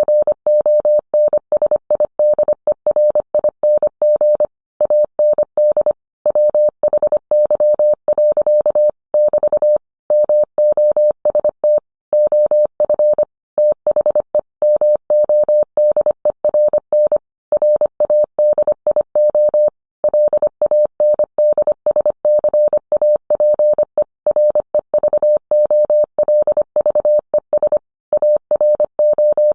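Morse code sent as a single clean tone of about 600 Hz, keyed on and off in a fast run of dots and dashes with short pauses between characters and words.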